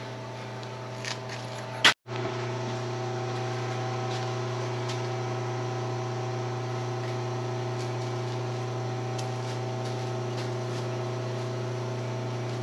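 A steady mechanical hum, like a motor or fan running, with a few faint clicks. It cuts out for a moment about two seconds in and comes back a little louder.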